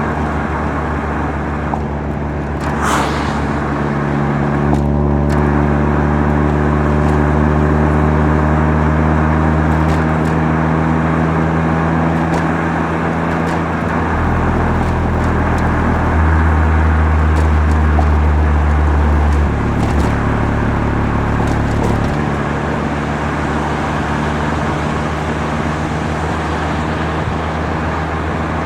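Mazda RX-7 FC3S twin-rotor 13B rotary engine running under way through a Knight Sports Legal Sports aftermarket muffler, a steady exhaust drone. Its pitch steps up and down several times in the second half as engine speed changes.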